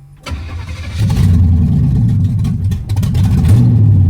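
Pontiac Strato Chief engine cranking and catching, then running loud and rough, with partial choke after sitting unused for a while.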